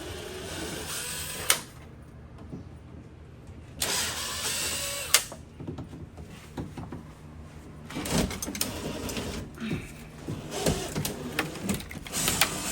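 Intermittent rustling and handling noises with two sharp clicks or knocks, over a faint steady low hum.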